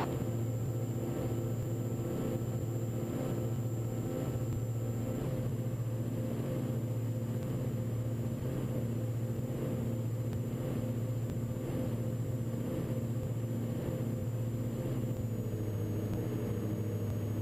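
Twin-engine Diamond DA42 NG's two Austro turbo-diesel engines and propellers droning steadily in climb after takeoff, heard from inside the cockpit. The pitch drops slightly near the end.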